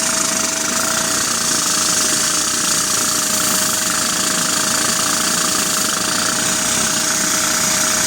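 LEGO valveless vacuum engine running steadily, a fast even rattle with a constant whine.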